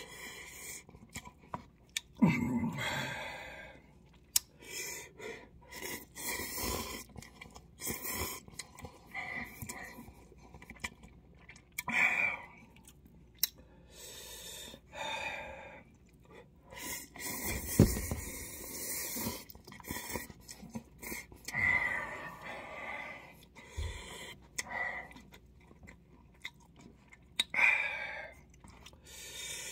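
Close-up eating sounds of cup ramen noodles: chewing and slurping in irregular wet bursts, with short clicks between them.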